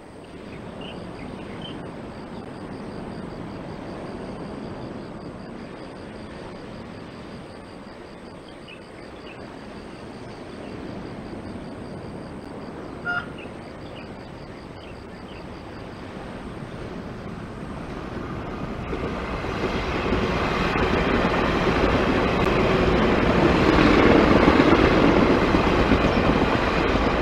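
Electric express train passing the station. About halfway through there is one short, distant horn toot, then the rumble of the train grows steadily louder as it runs by, peaking near the end.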